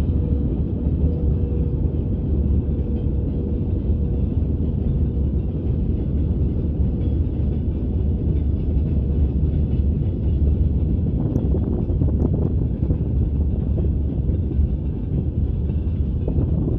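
Freight train behind a VL80S electric locomotive rolling past: a steady low rumble of wheels on rails, with a few short clicks about eleven seconds in.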